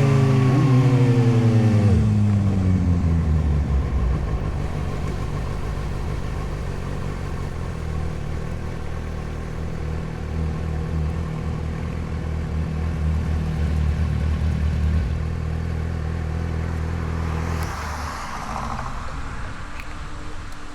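Suzuki GSX-S750's inline-four engine dropping from revs to idle over the first few seconds, idling steadily, then switched off near the end. A short rushing noise follows the shutdown.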